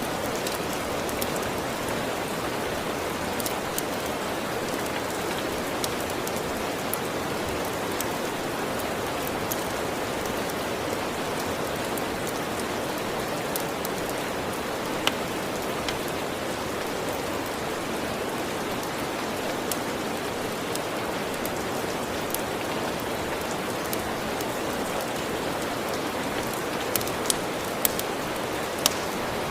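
Steady rain, with a wood fire crackling now and then and a few sharper pops near the end.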